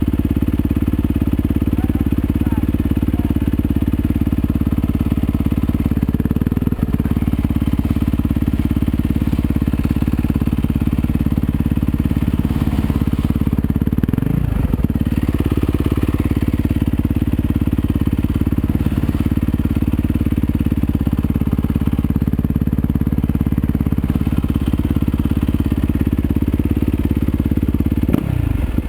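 Yamaha YZ250FX's single-cylinder four-stroke engine running steadily, with a brief change in engine speed about halfway through and again near the end.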